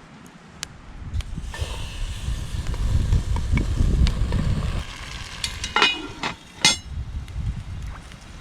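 Okonomiyaki batter sizzling in a hot Dutch oven over a campfire, the hiss starting about one and a half seconds in. Two or three sharp metal clinks near the end.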